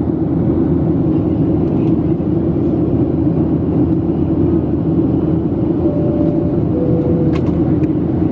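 Steady cabin noise of a Boeing 737-700 in climb: the drone of its CFM56-7B turbofans and the rush of air past the fuselage. Near the end two faint short tones sound, the second lower than the first.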